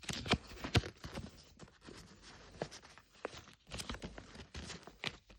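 A folded paper collector's guide leaflet being handled and unfolded: irregular rustles, crinkles and light taps, with a few sharper ones in the first second.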